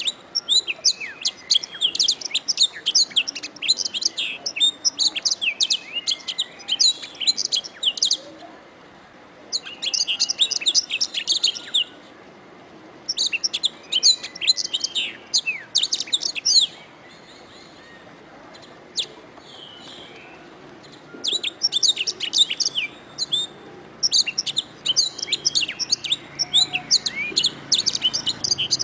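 Domestic canary singing: fast, high trilling and chirping phrases in bouts of several seconds, broken by short pauses.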